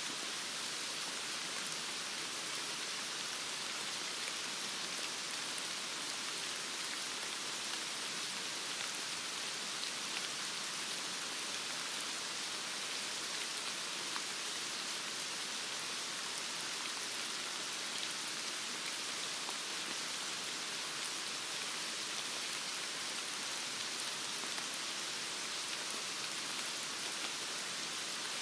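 Heavy rain falling steadily: an even hiss of rain with faint scattered drop ticks.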